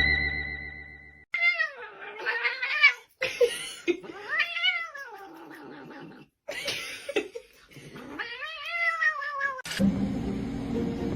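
A pet yowling in several long, drawn-out calls that rise and then fall in pitch, with abrupt breaks between them.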